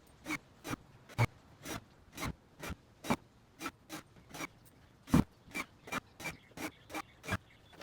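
Hand sanding wood with sandpaper: a steady run of short strokes, about two to three a second.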